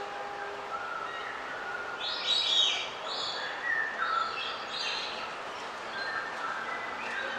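Birds chirping and calling, with several louder bursts of chirps a few seconds in, over a steady background hiss.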